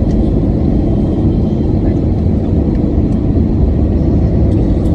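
Loud, steady low rumble of airliner cabin noise during landing: the engines and rushing air heard from inside the passenger cabin.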